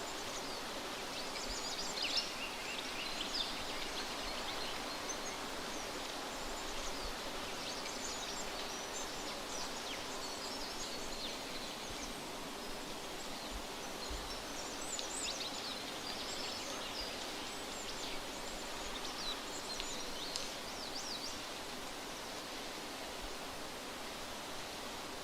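Wind rustling steadily through leafy woodland, with small songbirds chirping and trilling high above it in scattered bursts.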